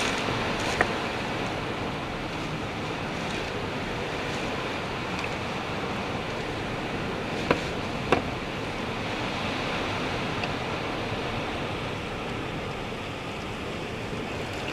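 Hurricane wind and driving rain blowing steadily, with a few sharp taps or knocks, one about a second in and two close together around seven to eight seconds in.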